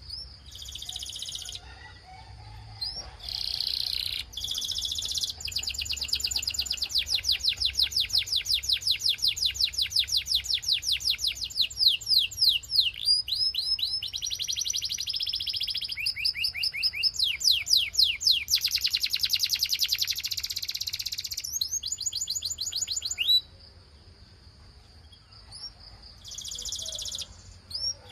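Belgian canary singing: long, fast trills of rapidly repeated high notes, changing from one trill to the next, with a short break near the end before the song starts again.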